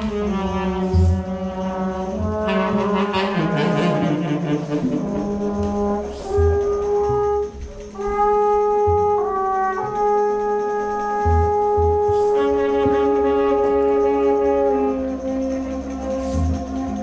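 Improvised live instrumental music: long held notes that shift pitch every few seconds over a steady low drone, with occasional low thumps.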